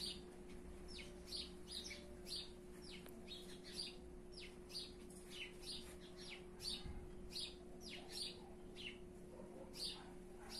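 Small birds chirping: many short, high, falling chirps, a few each second, over a faint steady hum.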